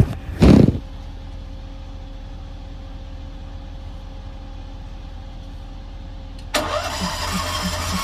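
A steady engine idle, with a short loud burst about half a second in. About six and a half seconds in, the mechanics truck's welder, generator and air compressor combo starts up and runs louder, with an even pulse of about three to four beats a second.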